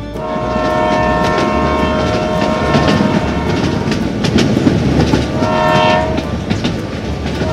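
Train horn sounding in long blasts, one from the start lasting about two and a half seconds, another shorter one a little before six seconds, and a third starting at the end, over a steady rumbling clatter of a running train.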